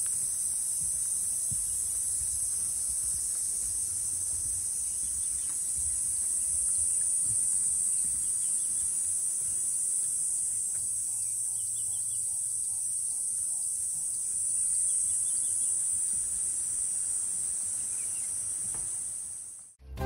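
A steady, high-pitched shrill chorus of insects with a few faint bird chirps and a low rumble beneath. It cuts off suddenly just before the end.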